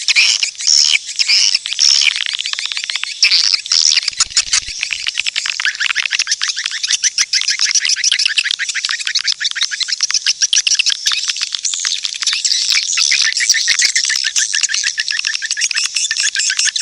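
Swiftlet lure-call recording: high chirping swiftlet twitters, in separate bursts for the first few seconds, then a dense, rapid, continuous twittering, the sound played to attract edible-nest swiftlets into a bird house. A brief low thump about four seconds in.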